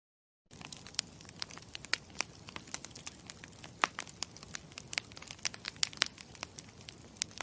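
Campfire crackling: irregular sharp pops and snaps over a steady low hiss, starting about half a second in.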